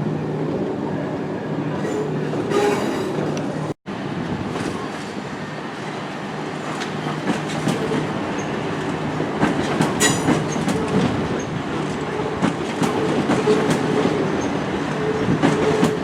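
Train moving along the track: a steady rumble with its wheels clicking over rail joints and points, the clicks coming thicker in the second half. The sound drops out for an instant about four seconds in.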